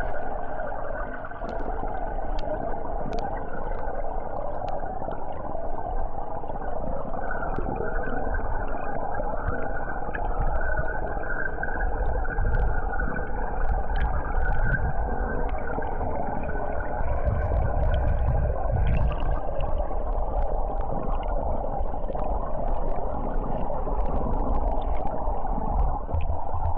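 Creek water pouring over a fallen log, heard underwater: a steady, muffled churning of turbulence and bubbles with a low rumble and scattered faint ticks.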